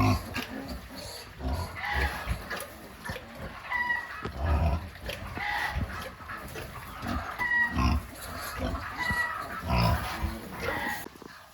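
Pigs grunting over and over in short low grunts, about one a second, with short high chirps scattered in between.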